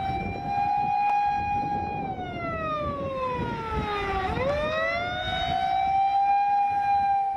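Motor-driven siren wailing: a held tone that winds slowly down for about two seconds, then winds quickly back up and holds again, over steady low noise.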